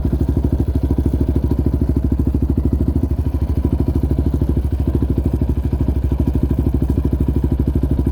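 Yamaha Raptor 700R quad's single-cylinder four-stroke engine running steadily at an even, low speed, a fast regular pulse with no revving.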